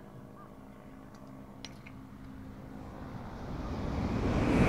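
A Tōkaidō Shinkansen high-speed train approaching: a rushing noise that swells steadily louder over the last second and a half.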